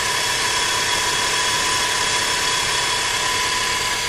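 Rover 25's 16-valve twin-cam K-series engine idling steadily at about 1,000 rpm with a steady high whine over it. Its cambelt has just been re-tensioned after being found too slack, and the engine sounds much healthier.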